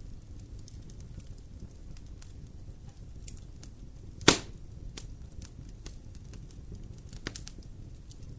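Wood fire crackling in a fireplace, with scattered small snaps over a low rumble and one sharp, loud pop about four seconds in.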